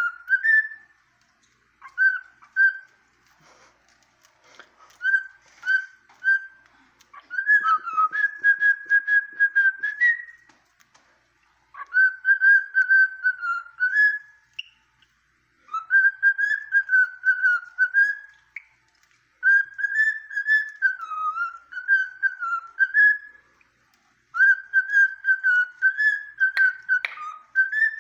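Cockatiel whistling its song in a string of phrases a few seconds long, each a wavering note around the same pitch, separated by short pauses. A patter of light clicks comes about eight seconds in.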